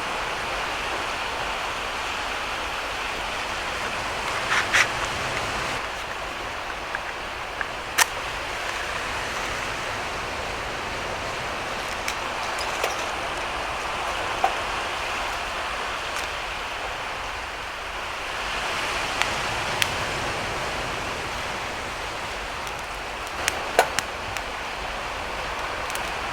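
Steady rush of sea waves and wind, with a handful of sharp crackles from a wood campfire scattered through it.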